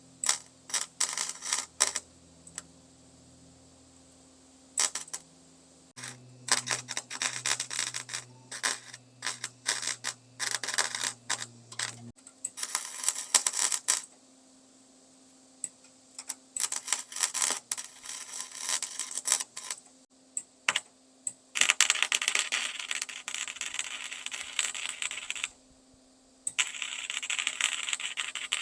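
Electric welder crackling in a series of short bursts and a few longer runs of several seconds, over a steady low hum: plug welds laid through drilled holes to fuse nuts and washers behind the tailgate's thin sheet metal.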